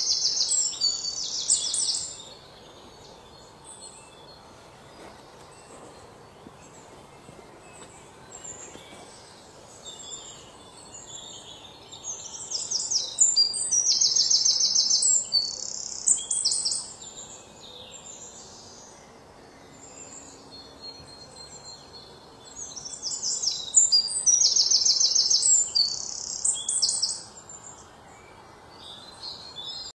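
A songbird singing in bouts of quick, high-pitched notes, each a few seconds long, coming about every ten seconds.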